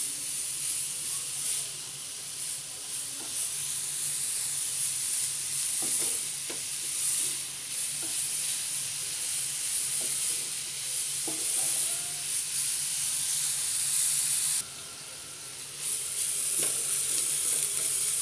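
Grated beetroot sizzling in ghee in a non-stick frying pan, stirred and scraped with a wooden spatula. The sizzle dips for about a second some fifteen seconds in.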